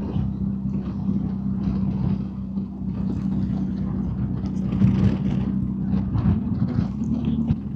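BMW R1250GS Adventure boxer-twin engine running steadily at cruising speed, with a constant rush of wind and road noise.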